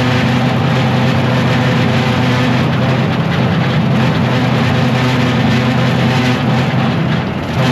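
John Deere tractor engine running steadily while pulling a rotary cutter (bush hog) through pasture, with a constant low drone and a slight dip in level near the end.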